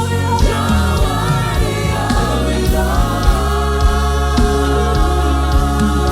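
Gospel worship music: a choir singing long held notes over a band with a heavy bass line and a steady drum beat.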